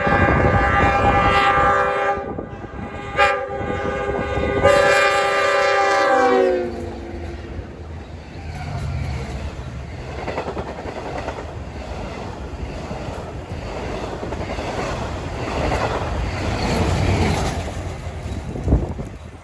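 Long Island Rail Road diesel locomotive's chime air horn blowing for the grade crossing: a long blast, a brief toot, then another long blast whose pitch drops as the locomotive passes. After that the train rolls by with a steady rumble and wheel clatter.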